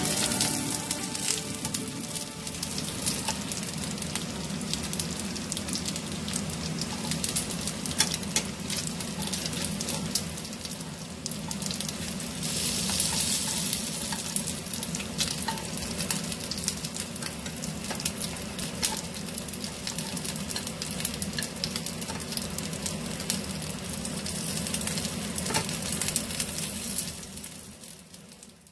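Korean dumplings pan-frying in oil in a nonstick pan, sizzling and spitting with many small crackles. The sizzle gets louder for a few seconds around the middle as the dumplings are turned with metal tongs, and it fades out at the end.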